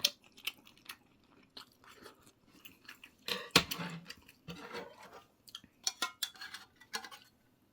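Close-miked chewing in short irregular bouts, with scattered clinks of cutlery against a dish, some ringing briefly.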